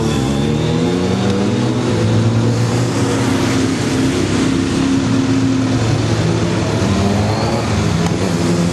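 Triumph Daytona 675's three-cylinder motorcycle engine running steadily close by, its pitch wavering slightly.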